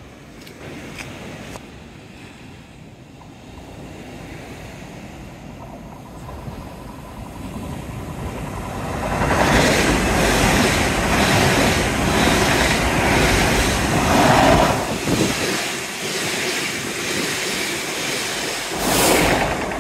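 Waves breaking on the shore and wind at first. Then a Great Western Railway passenger train runs past close by on the seawall line, its noise building and growing loud about nine seconds in.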